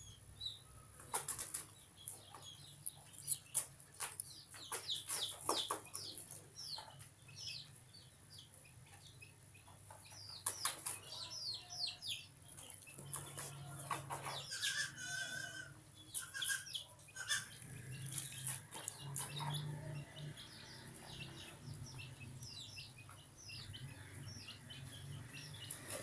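Small birds chirping over and over in short, quick, downward-sliding notes, with scattered sharp clicks and rustles.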